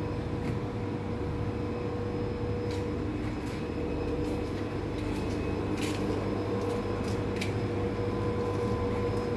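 A steady machine hum with a few fixed tones over a low rumble, with scattered light clicks and ticks.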